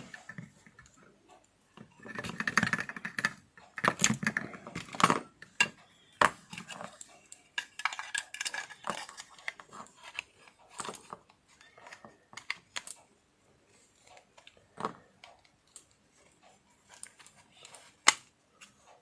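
Small plastic housing parts and circuit board of an opened electric lint remover being handled: irregular clicks, taps and scraping rustles, with a few sharper clicks spread through.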